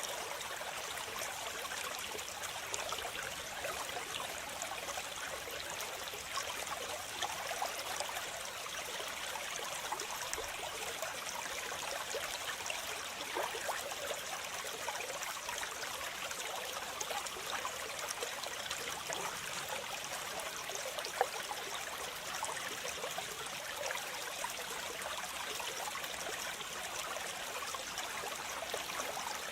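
Waterfall: water falling and splashing in a steady, unbroken rush, mostly a high hiss with little deep rumble.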